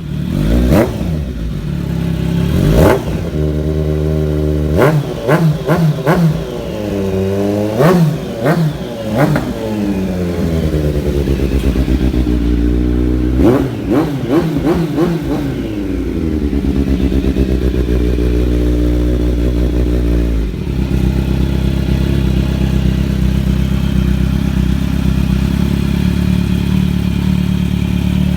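Kawasaki Z900's inline-four engine through an aftermarket exhaust, revved in a series of sharp throttle blips that each fall back slowly, then settling into a steady idle for the second half, stepping down slightly about twenty seconds in.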